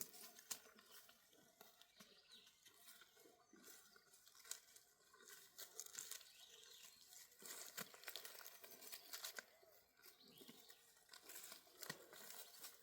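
Near silence with faint, scattered rustling and clicks.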